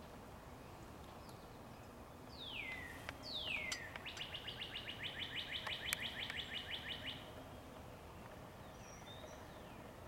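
A songbird singing: two clear down-slurred whistles, then a rapid trill of high notes lasting about three seconds, with a few faint notes near the end.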